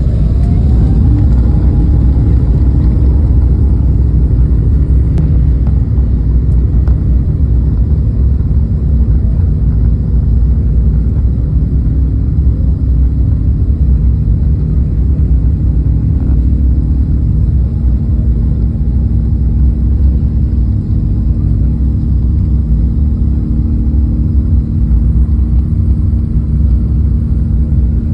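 Jet airliner taking off: a loud, steady engine rumble at takeoff power, with a faint whine rising during the first couple of seconds.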